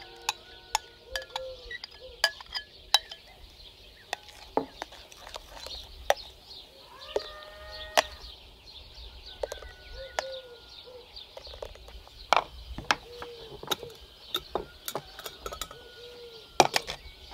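Sharp, irregular clinks and taps of a spoon against a sieve as cooked raspberry sauce is pressed through it. Birds chirp now and then behind, over a steady high hiss.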